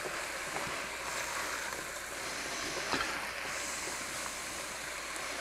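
Bacon, potatoes and bell peppers sizzling steadily as they sauté in a pot, stirred with a spoon, with a single clink about three seconds in.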